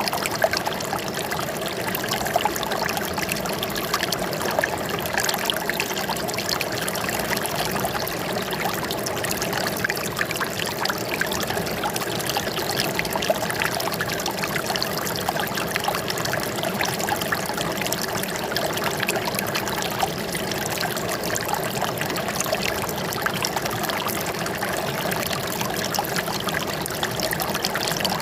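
Water trickling and splashing steadily, as in a small stream or cascade, with no let-up.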